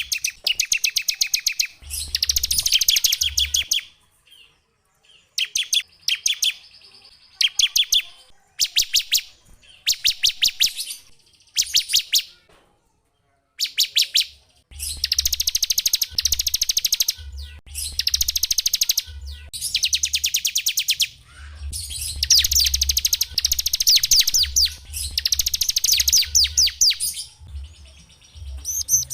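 Small songbirds singing in bursts of rapid, high, sharp trilled notes, with short pauses between phrases and a pause of about two seconds near the middle.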